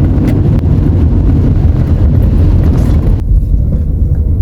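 Loud, steady low rumble of a vehicle on the move, with a hiss over it that drops away sharply about three seconds in.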